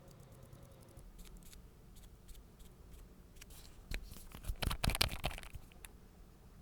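Small clicks and scraping from nail-art tools being handled, with a quick cluster of sharp clicks and a scrape a little after the middle.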